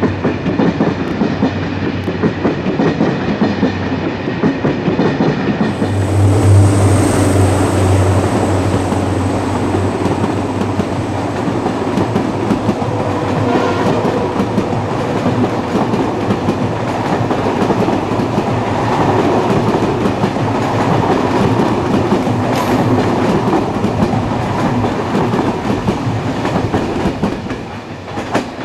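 A long rake of SNCF passenger coaches rolling past close by, its wheels clattering steadily on the track. The sound falls away as the last coach goes by near the end.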